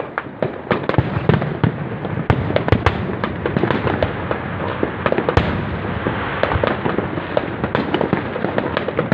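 Fireworks going off: a dense, continuous run of sharp pops and crackles, with several louder bangs standing out, one about two and a half seconds in and another about five and a half seconds in.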